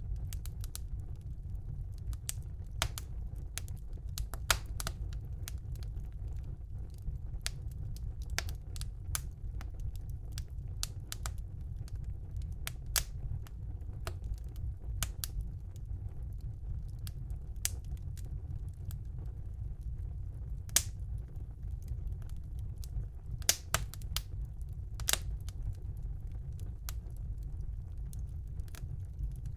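Wood fire burning in a fireplace: a steady low rumble of the flames with irregular crackles and sharp pops of the burning logs, a few pops louder than the rest.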